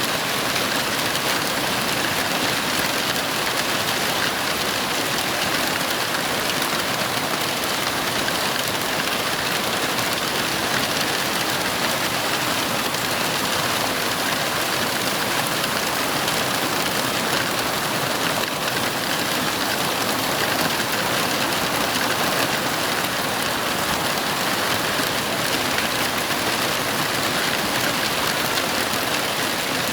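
Heavy rain falling as a steady, even hiss, with no rises or breaks.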